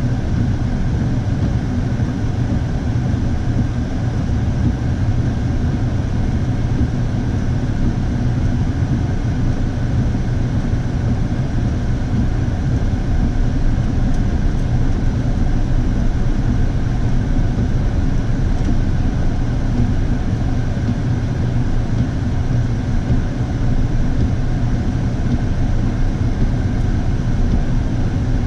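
Steady low drone of a motor vehicle's engine and road noise while driving, heard from inside the vehicle.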